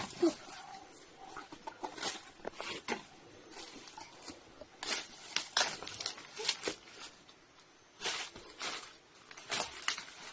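Footsteps crunching and rustling through dry leaves and undergrowth, uneven, a step or two every second or so.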